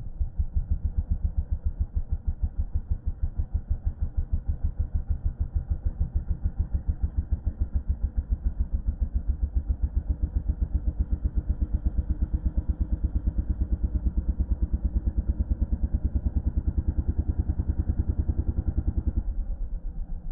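Yamaha dirt bike's single-cylinder engine running under way, heard as a rapid, even, muffled pulsing. The sound thins out a little about a second before the end.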